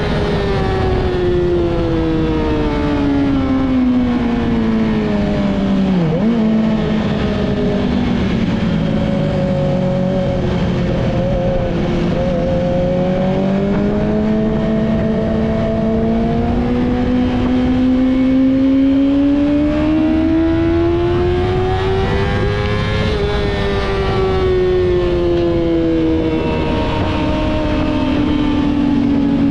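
Yamaha YZF-R6 inline-four with a Two Brothers full exhaust system, pulling through the gears on a ride. Engine speed falls for the first six seconds, with a sharp dip about six seconds in, then rises steadily for some fifteen seconds before easing off again near the end.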